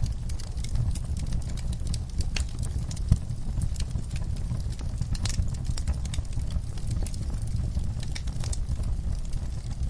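Wood fire burning in a fireplace: a steady low rumble of flames with frequent irregular crackles and pops, one sharper pop about three seconds in.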